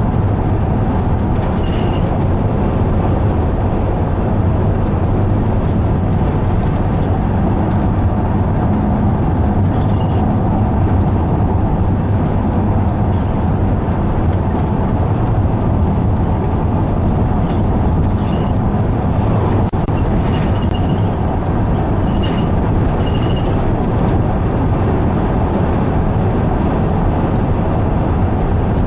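Steady engine and road noise of a car being driven, an even low drone.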